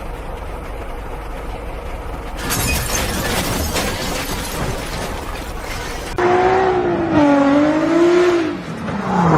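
Car road noise, then a loud stretch of crash noise with shattering from about two and a half seconds in to about six seconds. After that comes a long wavering pitched sound of about two and a half seconds.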